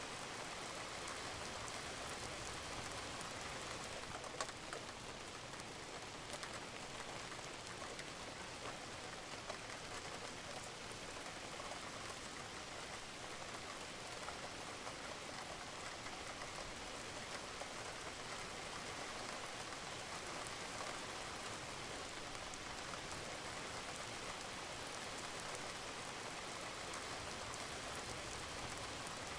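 Steady rain falling on a roof, with a few individual drops ticking louder over the even patter, the clearest about four seconds in.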